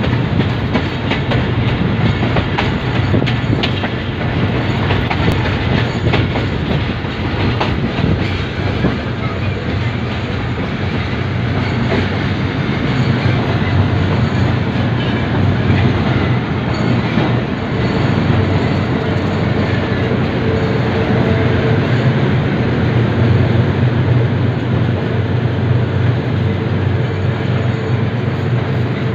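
Train running along the line, heard from aboard a carriage: a steady loud rumble of wheels on the rails, with sharp clicks over the rail joints that come thickest in the first several seconds.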